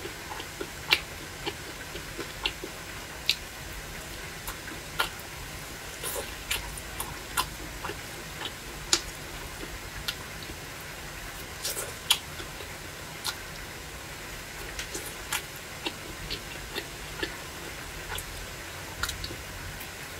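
Close-up eating sounds: irregular sharp clicks and crunches from biting and chewing fried meat off bamboo skewers, over a steady low hum.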